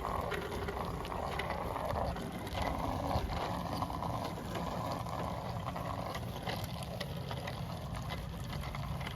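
Bicycle being ridden: a steady rumble of wind and tyres on pavement, with scattered light clicks from the chain and freewheel.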